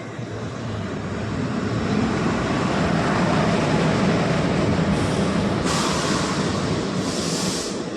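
Train rolling along the tracks: a rumble that builds over the first couple of seconds and stays loud, with three short hisses near the end.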